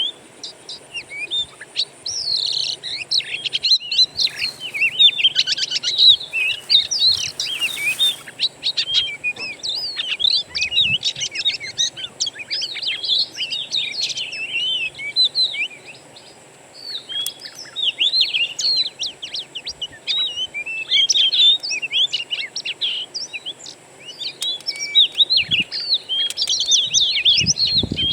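Songbirds chirping and singing in fast, varied, densely overlapping phrases, with short lulls about halfway and two-thirds of the way through. A faint steady high whine runs underneath.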